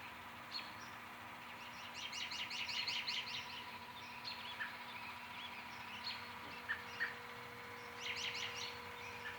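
Songbirds singing in an evening chorus. Scattered short chirps run throughout; a fast, high trill of rapid repeated notes comes about two seconds in and lasts over a second, and another comes near the end. A faint steady hum sits underneath.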